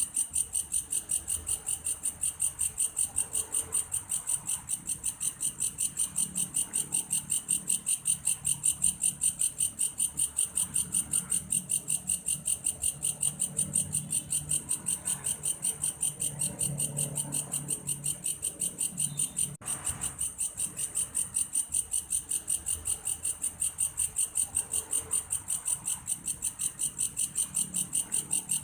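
A grasshopper (belalang kayu) calling in a steady, even rhythm of rapid, high-pitched chirping pulses, a few a second, much like a cricket.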